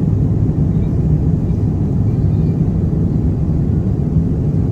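Jet airliner cabin noise: a loud, steady low rumble of engines and rushing air, heard from inside the cabin.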